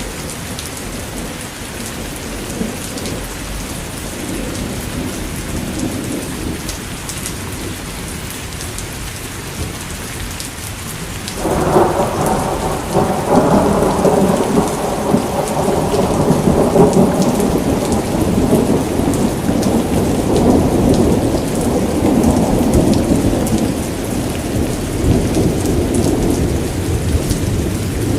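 Steady rain falling, with a loud roll of thunder that breaks in suddenly a little before halfway and rumbles for about twelve seconds before easing off.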